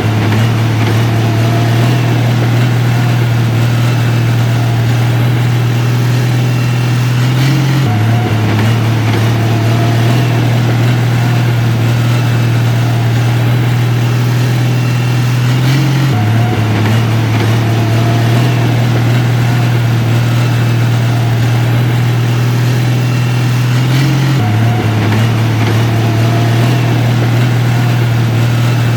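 Heavy machinery's diesel engine running with a steady low drone. The drone steps slightly in pitch about every eight seconds, as if the same stretch of sound repeats.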